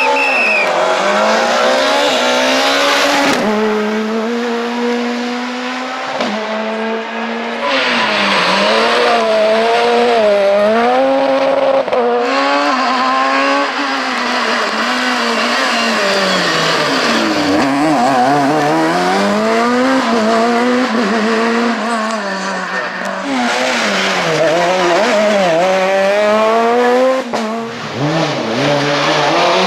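Super 2000 rally car's naturally aspirated four-cylinder engine at racing revs, the pitch climbing and dropping again and again through gear changes and corners. The sound changes abruptly several times.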